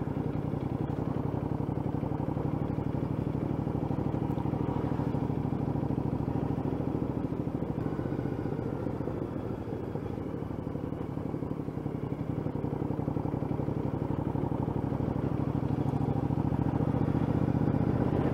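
2013 Triumph America cruiser's 865cc parallel-twin engine running at low road speed, heard from the rider's helmet. The engine note eases off about halfway through and builds again toward the end.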